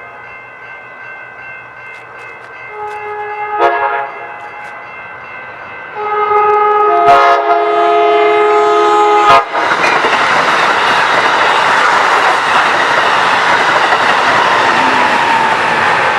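A locomotive's multi-tone horn sounding at the grade crossing: a blast of about a second and a half, then a longer blast of about three seconds. Right after it, about nine seconds in, the train passes close by with loud wheel and rail noise. Steady ringing from the crossing signals runs underneath.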